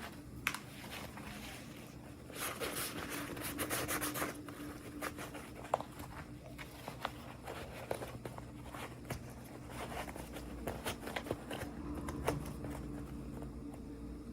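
Hands unboxing small toys: packaging rubbed and rustled, with scattered small clicks and taps. The rustling is densest a couple of seconds in.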